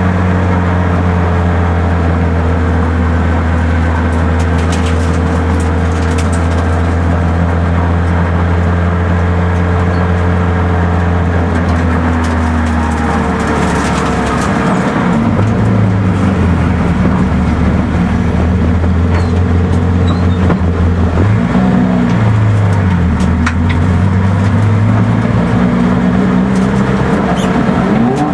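Peugeot 106's four-cylinder engine, heard from inside the cabin. It runs at steady revs for about the first half, then revs rise and fall in repeated swells.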